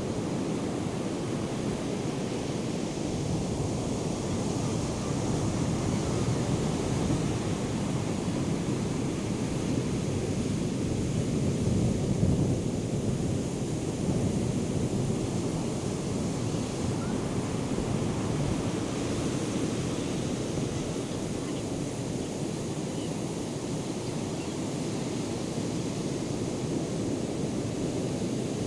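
Surf from a hurricane swell breaking and washing in, a steady rush that swells louder about twelve seconds in.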